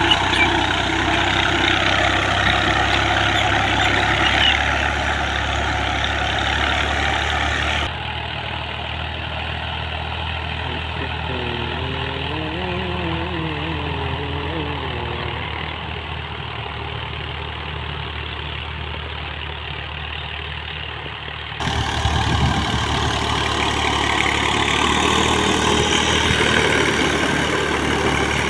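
Farm tractor engine running steadily while working a field with a plough or leveller. The sound changes abruptly about 8 seconds in to a quieter, duller stretch and returns to the fuller sound about 22 seconds in, with a faint wavering tone partway through the quiet stretch.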